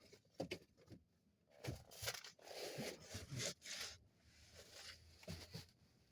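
Irregular rustling and scraping in short bursts, with a few sharp clicks.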